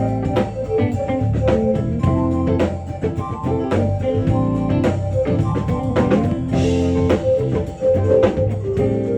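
Live band music: guitar and held melody notes over a steady drum-kit beat.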